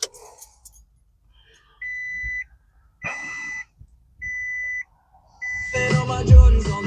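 2020 Toyota Tundra's in-cab warning chime beeping four times at one steady pitch, about a beep a second. Near the end a loud low rumble comes in.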